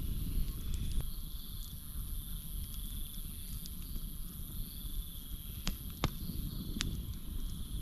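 Campfire burning with a few sharp crackles, one about a second in and three close together near the end, over a steady high drone and pulsing chirps of crickets.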